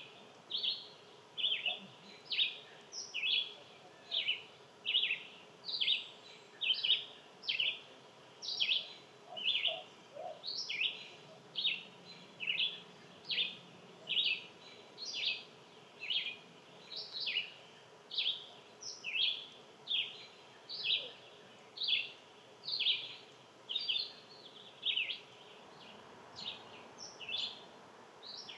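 A bird calling over and over, one short sharp note about every two-thirds of a second, with an outdoor background hiss.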